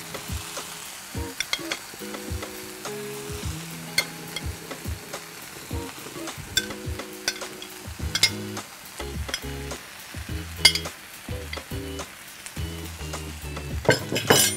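Polos (young jackfruit) sausages, onions, capsicums and chillies sizzling in a non-stick frying pan as a spoon stirs them, clicking and scraping against the pan, with a burst of clattering near the end.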